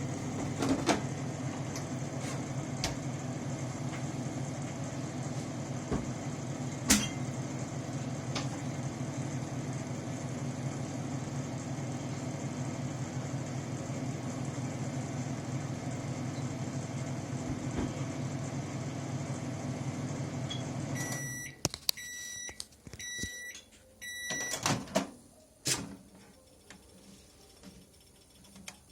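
Microwave oven running with a steady hum and occasional sharp clicks. The hum stops about 21 seconds in, and the oven's end-of-cycle beeps sound several times, followed by a few knocks near the end.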